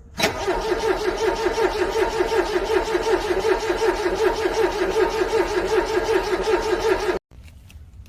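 Car engine being cranked by its starter in freezing cold, pulsing rapidly for about seven seconds without catching, then cutting off suddenly as the key is released: a hard cold start that fails.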